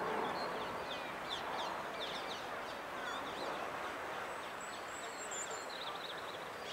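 Small birds chirping in quick runs of short, high, falling notes over a steady outdoor background hum.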